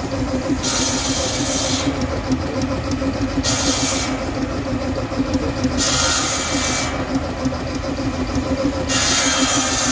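A steam engine running steadily with a low hum, with a hiss of steam about a second long coming roughly every two and a half to three seconds.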